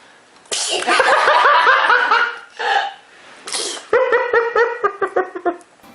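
High-pitched laughter in quick, repeated "ha" pulses, in two stretches, with a short breathy burst between them.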